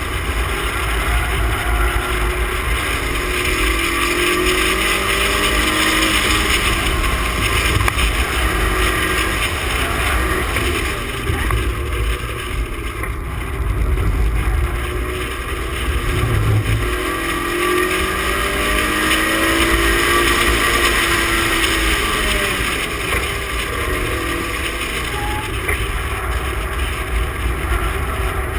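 Toyota MR2 Spyder's 1.8-litre four-cylinder engine at full effort around a tight kart circuit, revs climbing and dropping again and again as the car accelerates out of corners and lifts for the next, over a steady low rumble of wind and road noise.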